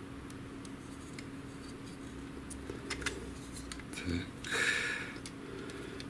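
Small clicks and taps of plastic parts being handled, with a short scraping rustle about four and a half seconds in, as an HP DeskJet GT 5820 inkjet printer is taken apart to free its paper-feed shaft, over a steady low hum.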